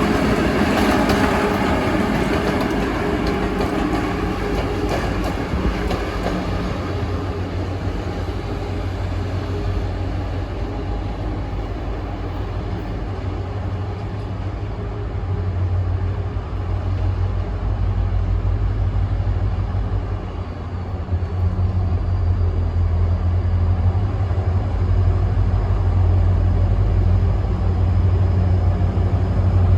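A train passing, its wheel-on-rail noise fading over the first several seconds, then a steady low rumble for the rest of the time.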